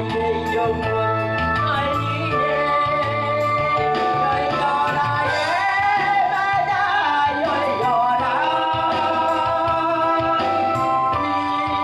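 Korean Christian praise song: a singer's voice over keyboard accompaniment with a steady bass line.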